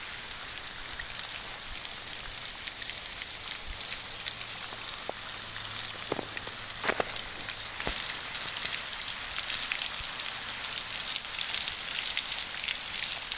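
Waterfall spattering onto rock: an even high hiss of falling water, like steady rain, with scattered single drops ticking and splashing.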